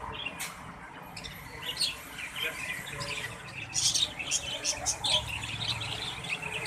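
Many caged birds chirping at once: a dense, overlapping chatter of short high calls that grows busier about halfway through.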